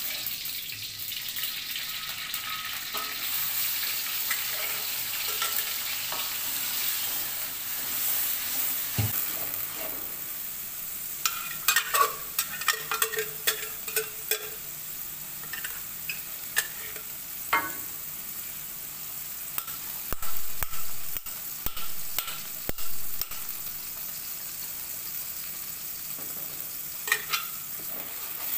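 Blended green chili paste frying in hot oil in an aluminium wok, sizzling steadily while a metal spatula stirs and scrapes it. Scattered sharp clinks of the spatula against the wok and the blender jar come mostly about halfway through and again near the end.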